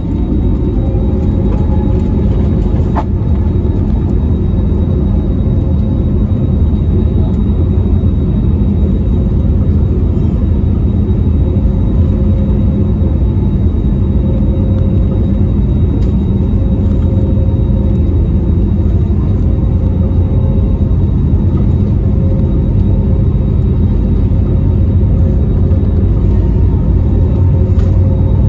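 Airbus A320neo cabin noise during takeoff: the engines at high power make a loud, steady low rumble, with a faint steady whine above it.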